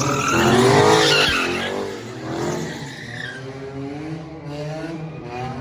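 Car drifting: the engine revving high with the tyres skidding. Loudest in the first two seconds, then fading.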